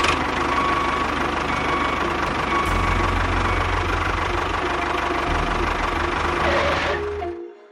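Engine running steadily with a fast knocking beat, then cutting off suddenly near the end.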